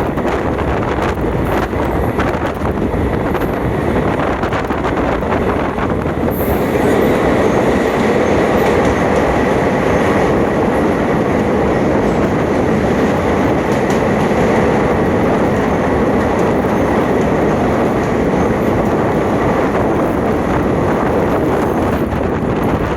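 Passenger train running along the track, heard from on board: a steady rumble of wheels and carriage with some clickety-clack. About six seconds in the sound grows louder and fuller, with a faint steady whine on top.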